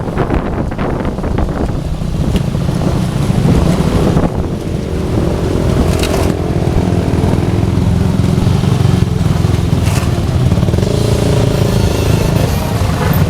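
Motorcycle engines running loudly with a steady low rumble, a higher engine tone joining about five seconds in.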